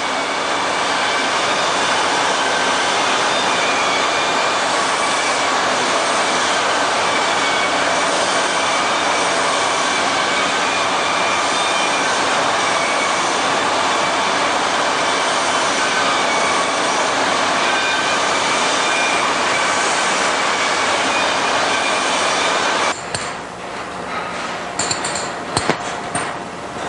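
Abrasive belt grinder with a 120-grit belt working small steel pliers: a loud, steady hiss with faint whining tones. It stops suddenly about 23 seconds in, leaving scattered clinks of metal.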